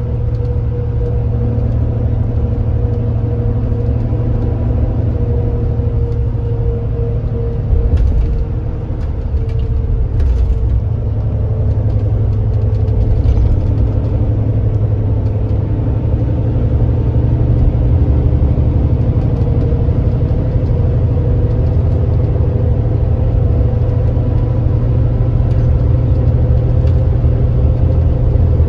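Kia Granbird Sunshine coach's engine and drivetrain running under way at speed: a steady low drone with a thin whine above it. There is a jolt about eight seconds in, and the sound grows slightly louder after about sixteen seconds.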